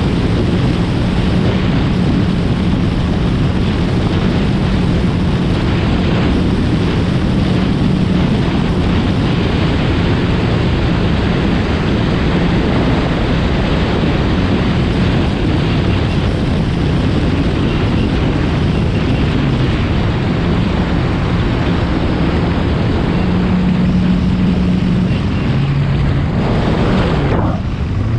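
Yamaha FX SVHO personal watercraft's supercharged four-cylinder engine running at a steady cruising speed, mixed with the rush of water and wind on the microphone. Its pitch drops near the end.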